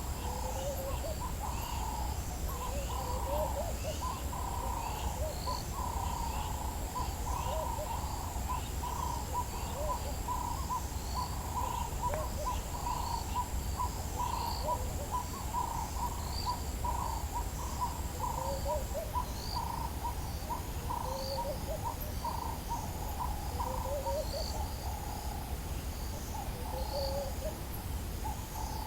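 African bush dawn chorus: one bird repeats a short hooting note about twice a second while other birds chirp irregularly. A steady high-pitched insect drone stops about two-thirds of the way through, over a low background rumble.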